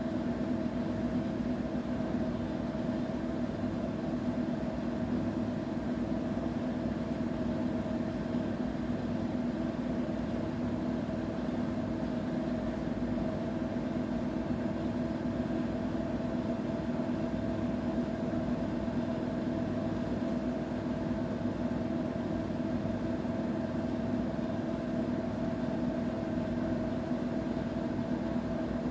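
Washing machine running with a steady mechanical hum at an unchanging pitch.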